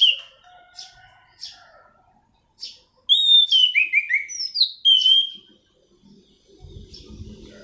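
Anis cendana thrush singing: a few short scattered chirps, then about three seconds in a loud, rapid phrase of down-slurred whistled notes. A low rumble starts near the end.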